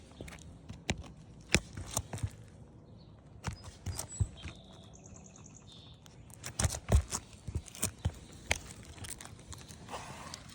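Irregular clicks, taps and light knocks of asphalt architectural shingles being lifted and flexed by hand and stepped on, with a denser run of knocks about six to seven seconds in. A brief high chirp sounds about five seconds in.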